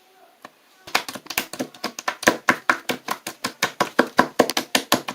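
A fast, even series of sharp taps or clicks, about six a second, starting about a second in.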